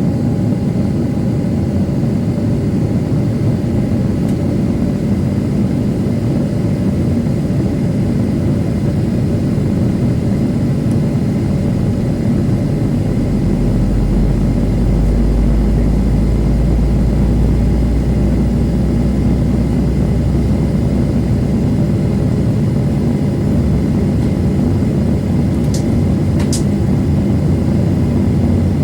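Boeing 737 with twin CFM56 jet engines heard from inside the cabin while taxiing: a steady engine hum with a faint whine, and a deeper rumble that swells for several seconds midway. Two short clicks near the end.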